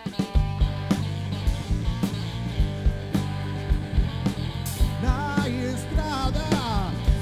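Rock band playing live in an instrumental break: the full band with drums comes back in just after the start, and an electric guitar bends notes in the second half.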